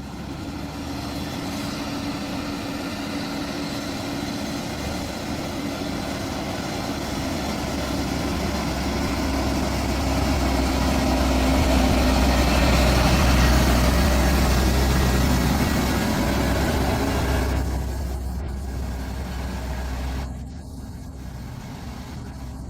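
Hyundai Xcient heavy-haul semi-truck's diesel engine running under a heavy load, a steady low drone that grows louder to a peak around the middle, then falls away, dropping sharply near the end.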